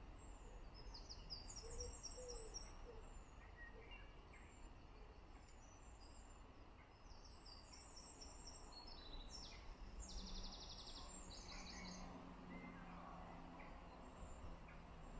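Faint birdsong: several songbirds give short high phrases, with a fast trill about two-thirds of the way through. A few low, short calls sound near the start, over a low steady background rumble.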